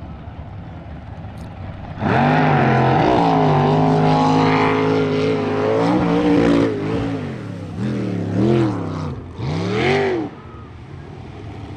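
Big-block Chevy V8 of a jet sprint boat coming in suddenly about two seconds in and running hard, then its revs dropping and climbing several times before falling away near the end.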